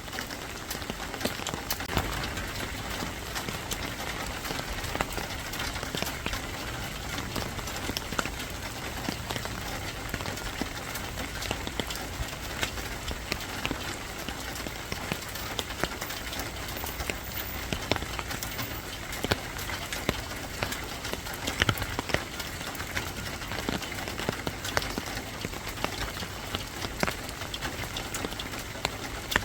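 Steady rain falling, with a continuous hiss and many small sharp taps of drops striking hard surfaces.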